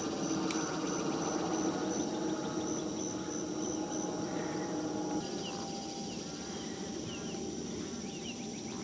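Outdoor wetland ambience: a steady low hum, with a rapidly repeating high-pitched pulsed note from an insect or bird that stops about four seconds in. A few short, rising bird chirps follow in the second half.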